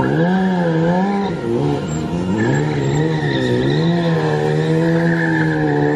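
BMW S1000 sport bike's inline-four engine held at high revs, its pitch rising and falling in repeated swells as the rider works the throttle.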